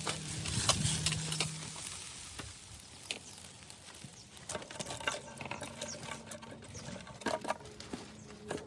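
Irregular light clicks and taps, with a low steady hum for the first second or two.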